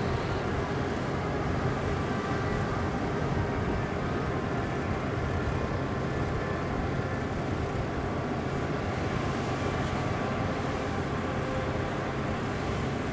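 Steady noise of aircraft or ground-support engines running on an air-base flight line, with a faint high whine held throughout.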